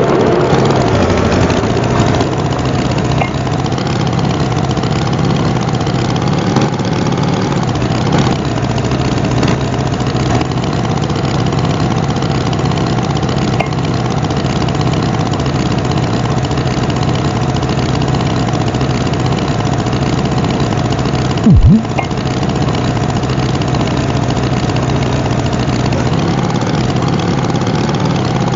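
Tractor engine running steadily at a low rumble, with one short loud burst about two-thirds of the way through.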